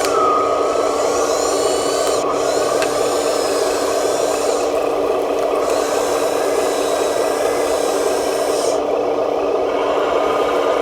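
Small electric motors and gearboxes of radio-controlled construction models running, a steady mechanical hum with whines that rise and fall in pitch as their speed changes.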